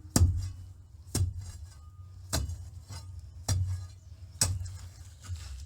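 Sharp clinks of a hard tool striking, about one a second, five or six in a row.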